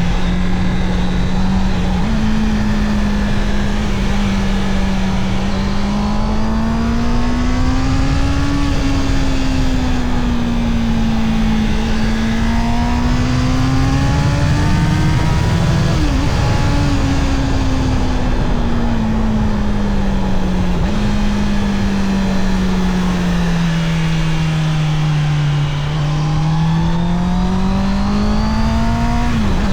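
Honda CB650R inline-four engine under way, its note climbing under throttle and falling off again several times. The pitch jumps up suddenly at about 2 s and again a little past two-thirds of the way through, typical of downshifts. It dips sharply about halfway and again near the end, as on upshifts.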